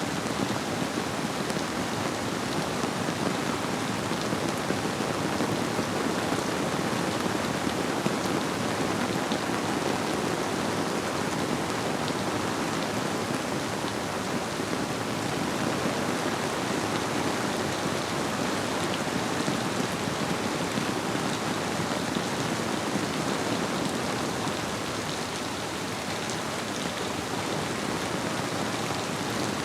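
Steady rainfall, many drops pattering on surfaces, blended with a flowing river as a dense even hiss.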